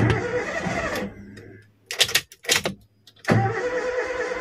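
Toyota Avanza's starter motor cranking the engine in two bursts, the first about a second long and the second a bit longer, with a couple of short sharp knocks in between. The car has a no-start problem, later traced to oil-soaked spark plugs.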